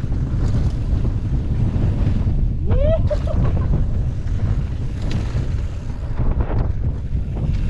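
Wind buffeting a GoPro action camera's microphone while riding a bike park trail: a loud, steady rushing. About three seconds in there is a brief rising tone.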